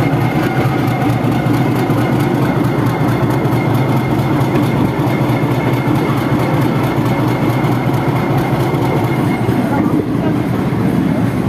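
Suburban electric local train (EMU) running at speed: a steady, loud rumble of wheels on rail with a faint thin whine above it.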